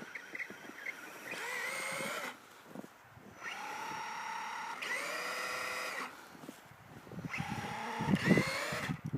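Brushless electric motor and drivetrain of an Axial Wraith RC truck on a 3-cell lipo, whining in three throttle bursts that rise in pitch as each one starts. Near the end the whine is joined by rough crunching and thumps as the truck churns through snow, which is the loudest part.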